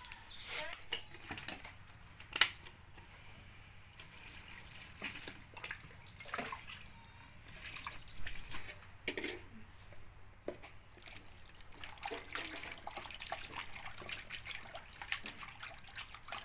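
Water splashing and trickling in irregular bursts, with scattered sharp clicks and one louder knock about two seconds in: something being rinsed or washed by hand in a vessel of water.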